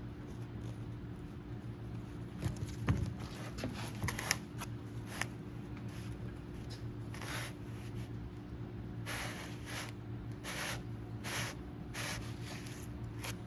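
Hands handling hydraulic cylinder parts and seals: a few light clicks and knocks, then a series of short rubbing swishes, over a steady low hum.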